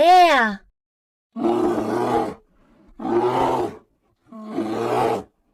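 Bear growling three times, each growl about a second long with short gaps between.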